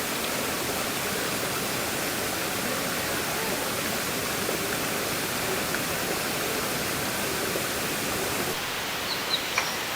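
Steady rushing noise, with two short clicks near the end.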